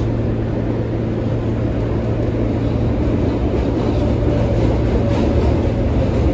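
R143 subway car running along the track, heard from inside the car: a steady low rumble of wheels on rail with a constant hum. A faint whining tone comes in about four seconds in and falls slightly in pitch.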